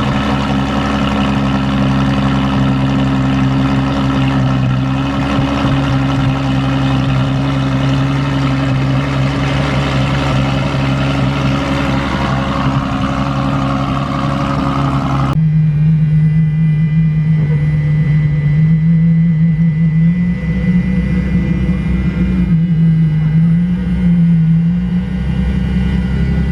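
A car engine idling steadily at a constant pitch. About halfway through, a hard cut switches to another idling engine whose pitch wavers slightly.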